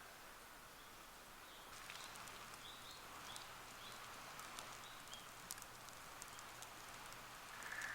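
Birds chirping faintly and repeatedly, with scattered small crackles from a wood campfire.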